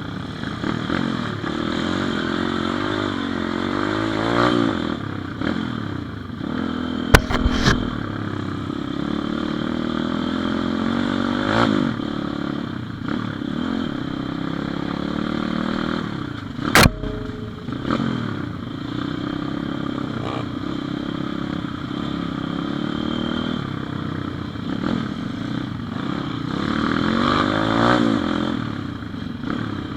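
Pit bike engine running while riding, its pitch rising and falling as the throttle opens and closes. Two sharp knocks stand out, one about a quarter of the way in and a louder one just past halfway.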